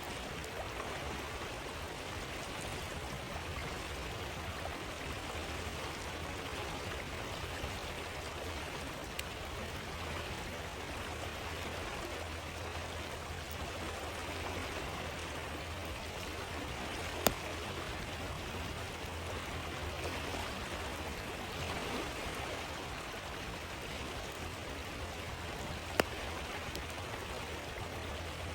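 Steady rushing of a flowing stream, with two sharp pops from a crackling wood campfire in the second half.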